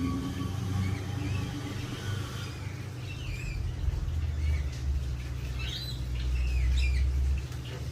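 Small birds chirping: a series of short rising and falling calls starting about a third of the way in, over a steady low rumble.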